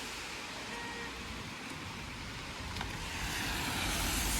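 Road traffic on a rain-wet street: a car's tyres hissing on the wet pavement, growing louder about three seconds in as it comes closer.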